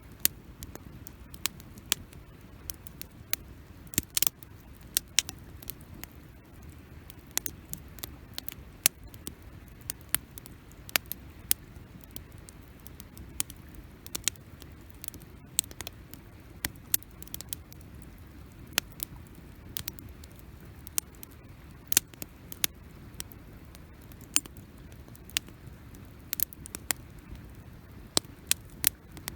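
Wood campfire crackling: sharp pops and snaps at irregular intervals over a low, steady background from the burning fire.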